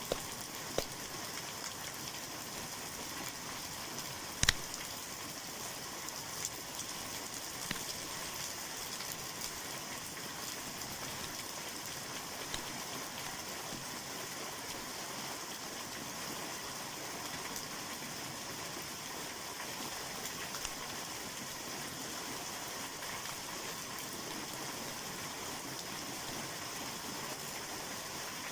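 Wood fire burning in an outdoor fireplace-barbecue: a steady hiss with a few sharp crackling pops, the loudest about four and a half seconds in.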